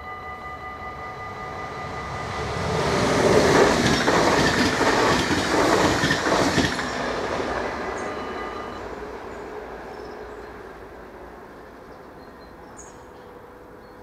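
Electric InterCity passenger train passing over a level crossing at speed. It swells in from about two seconds in, is loudest for about four seconds with wheels clattering over rail joints, then fades away. The crossing's warning bell rings steadily at first and falls silent after the train has gone by.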